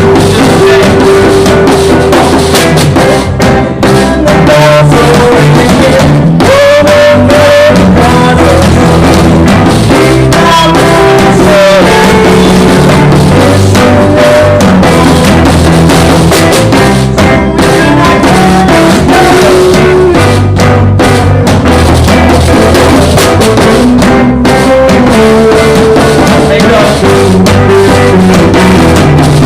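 Live band jamming, with drum kit and guitar playing and sustained melody notes over them. The recording is loud and pinned near full scale throughout, which the uploader calls very bad audio.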